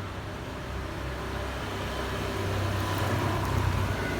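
Steady low mechanical hum, like a running motor or engine, getting slightly louder toward the end, with a few faint ticks.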